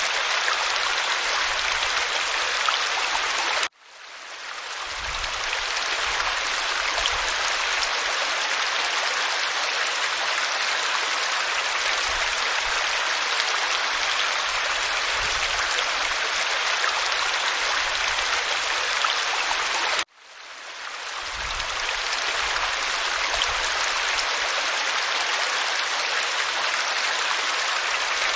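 Waterfall pouring over rock: a steady rush of water. It cuts out suddenly twice, about 4 seconds in and about 20 seconds in, and each time swells back up over a second or two, the seam of a looped recording.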